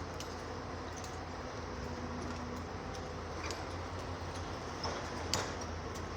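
Heavy diesel machinery at a quarry, the excavator's engine running steadily, with a few sharp knocks of rock, the loudest about five seconds in.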